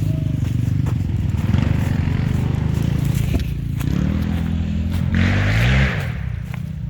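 Enduro motorcycle engine running under load, revving up with a rising pitch about four seconds in, with a short burst of hiss at the peak before the revs drop away.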